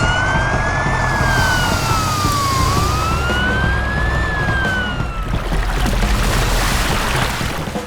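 Police car siren wailing: two slow rises and falls in pitch, ending about five seconds in, over a loud rumbling noise.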